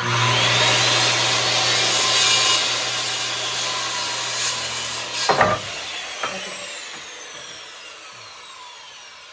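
Corded electric saw cutting through a wooden board: the motor comes on at full speed and cuts, a sharp knock sounds about five seconds in, then the blade winds down with a falling whine.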